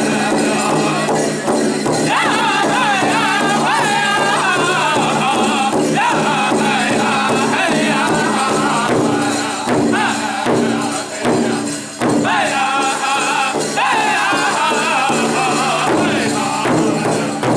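Powwow drum group singing a contest song: high voices in unison with gliding, falling phrases over a steady, evenly spaced beat on a large shared powwow drum.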